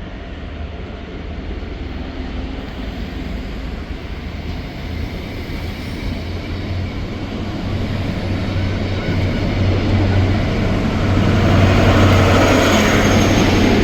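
High-speed train with Class 43 diesel power cars pulling away under power. The engine drone and the wheel and track noise grow steadily louder as the rear power car comes by, loudest near the end.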